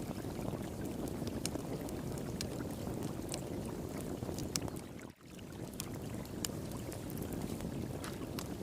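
Wood fire crackling with irregular sharp pops and snaps over the steady rush of flowing water. The sound drops out for an instant about five seconds in.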